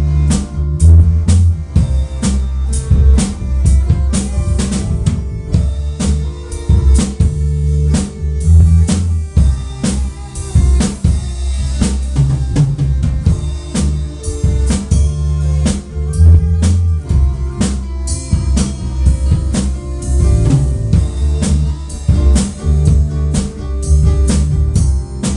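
Drum kit playing a steady beat, with snare and bass drum hits, over low bass notes that change pitch.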